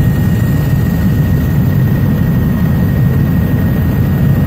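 Helicopter noise heard from inside the cabin: a loud, steady low drone with a thin, steady high whine above it.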